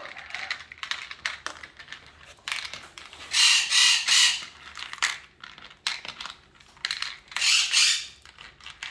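Beads clattering and rattling as a cockatoo scatters them, with many small clicks and two louder, roughly second-long bursts of rattling, one near the middle and one near the end.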